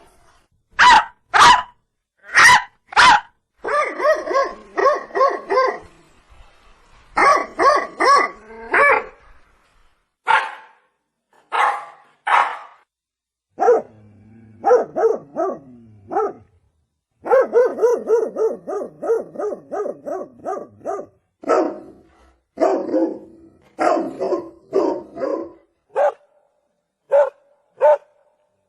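Domestic dog barking: a few loud single barks in the first three seconds, then quick runs of barks, several a second, broken by short pauses.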